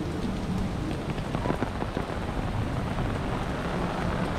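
Steady rain falling, with the patter of scattered individual drops striking close by.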